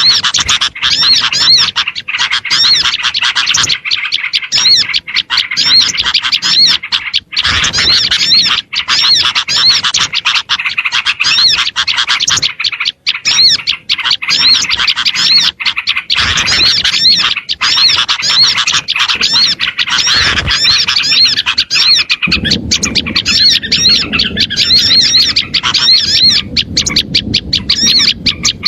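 Lure recording of many small birds chirping and calling at once, a dense, unbroken chatter of fast, high, repeated notes. A low background rumble joins about three quarters of the way through.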